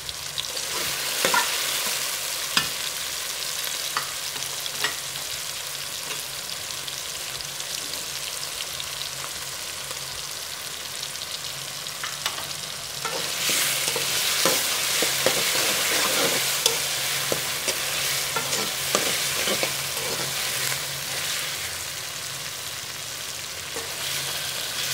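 Sliced onions and chopped tomatoes sizzling in hot oil in a metal karahi while a spatula stirs them, scraping and clicking against the pan. This is the bhunai stage of frying the masala base. The stirring grows busier and louder near the start and again for several seconds about halfway through.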